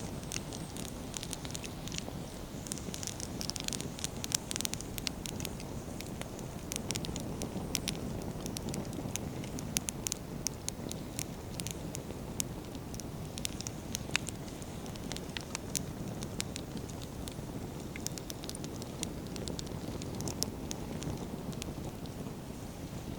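Wood campfire burning: a steady low rush of flames with frequent sharp crackles and pops from the burning firewood, scattered irregularly throughout.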